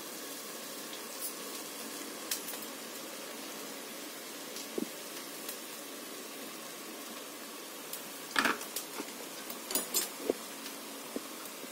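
Masala sizzling quietly in a pressure cooker, with a few light knocks and clinks as cooked basmati rice is tipped in from a bowl. The loudest knocks come about two-thirds of the way through.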